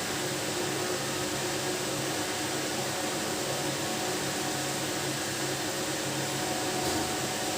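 Steady machine hum and hiss, even throughout, with no bird calls.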